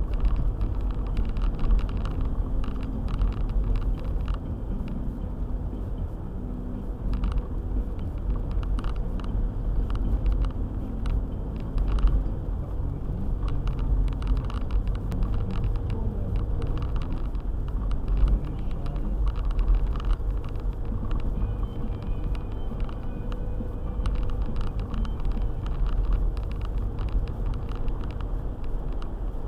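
A car driving, with steady low engine and road rumble and frequent small knocks and clicks.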